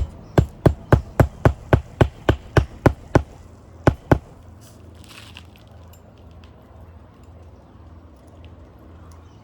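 Hammer driving a roofing nail into the roof deck under a lifted asphalt shingle: a quick run of about a dozen strikes, three or four a second, then two last blows about four seconds in, after which the hammering stops.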